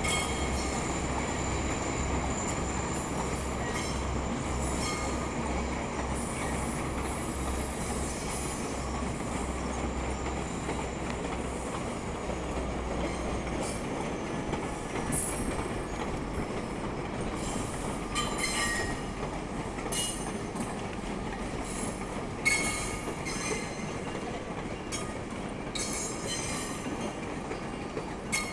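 GO Transit push-pull commuter train moving on the station tracks: a steady rumble with metallic wheel squeal. A low pulsing drone fades out about halfway through, and sharp clicks and squeals over the rail joints come more often after that, with one loud clack late on.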